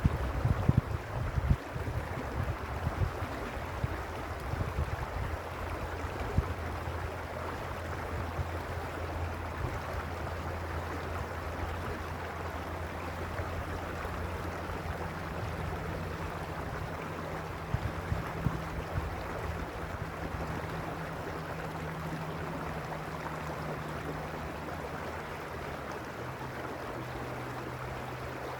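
Mountain stream rushing and splashing over stones in a steady, even wash. In the first few seconds wind buffets the microphone with low bumps, and a low steady hum runs underneath.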